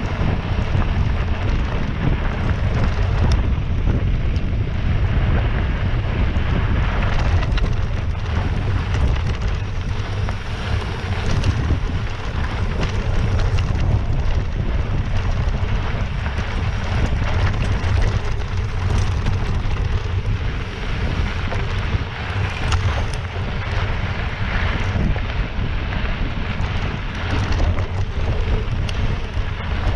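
Wind buffeting the microphone, a steady low rumble with scattered small clicks and knocks, as on a camera carried on a mountain bike ride.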